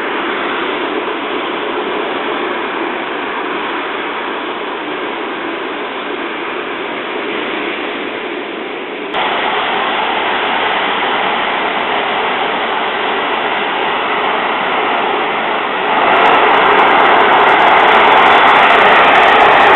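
Jet airliner engines heard through a mobile phone's microphone: a steady noise without clear tones that jumps louder suddenly about nine seconds in and again near the end.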